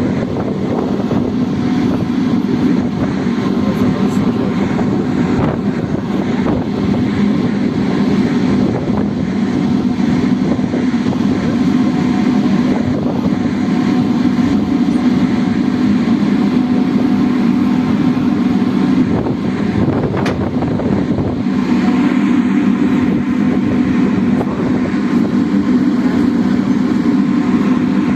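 Ferry engine running with a steady low hum under a constant wash of noise.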